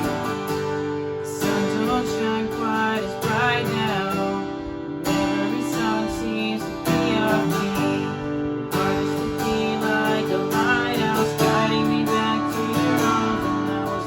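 Acoustic guitar strumming the chords of a country song, with a melody line bending in pitch above them.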